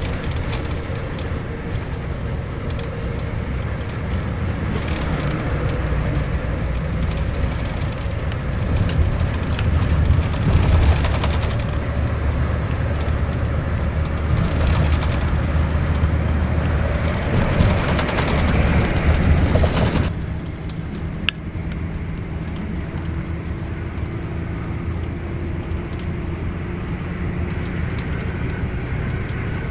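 Scania K410iB bus running on the road: a steady engine and road rumble that swells twice. About two-thirds of the way through it drops abruptly to a quieter, steadier hum, with a single click just after.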